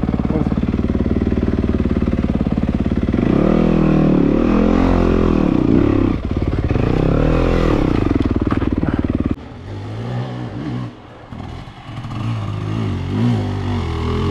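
Dirt bike engine revving in repeated rises and falls of pitch as the bike is worked over rough ground. About nine seconds in the sound drops abruptly to a quieter engine, which revs up again near the end.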